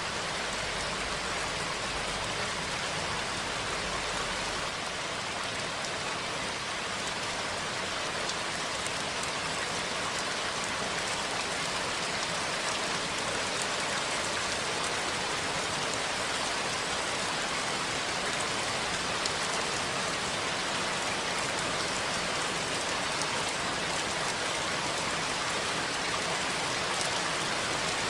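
Steady rain falling, an even patter of many drops. A low rumble underneath stops about five seconds in.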